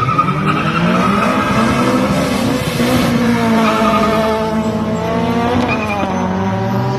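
Car engine revving hard while its tires squeal, as in a drift or burnout. The engine pitch climbs steadily through the middle and drops off near the end.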